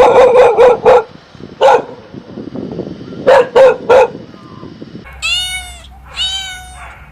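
A dog barking in short, sharp barks: a quick run at the start, one alone, then three more in a row. About five seconds in, a cat meows twice in long, wavering meows.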